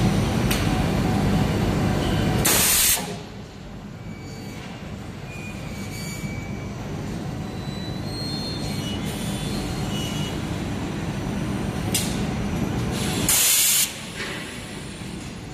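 Hot spring coiling machine running with a steady, heavy mechanical drone. Twice, about ten seconds apart, there is a loud hiss lasting about half a second, and after each one the running noise drops sharply before building up again.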